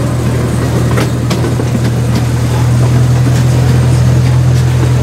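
Zoo ride train running along its track, heard from on board: a steady low engine hum that grows a little louder about halfway in, with occasional sharp clicks.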